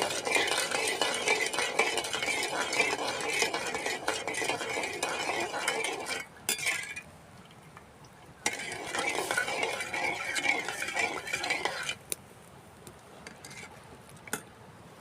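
Metal spoon stirring sugar in a metal pan to dissolve it for syrup, scraping steadily for about six seconds, pausing, then stirring again for a few more seconds before stopping, with a few light clinks near the end.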